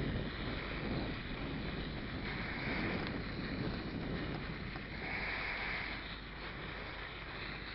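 Wind rushing over the microphone and a mountain bike's tyres rolling on a dirt path while riding, a steady noise with a hiss that swells about every two and a half seconds.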